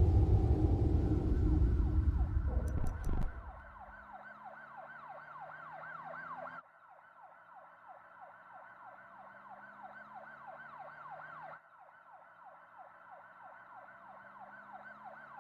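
A loud low rumble that cuts off about three seconds in, followed by a faint siren in the yelp pattern: quick falling sweeps, about three a second, which drop in level suddenly twice.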